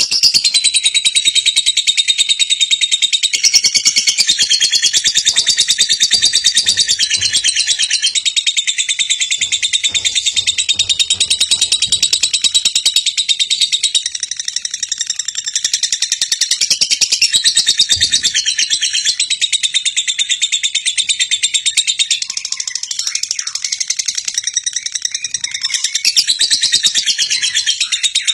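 Birds chirping in a dense, rapid, continuous chatter of high-pitched notes.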